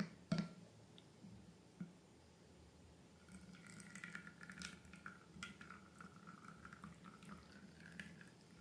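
Slime being squished and worked: soft, wet, sticky crackles and drips, starting about three seconds in, after a single sharp click near the start.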